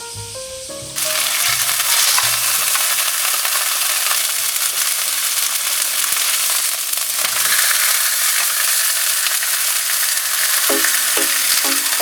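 Chicken breast frying in a hot pan with a loud, steady sizzle that starts abruptly about a second in. Light background music plays at the start and again near the end.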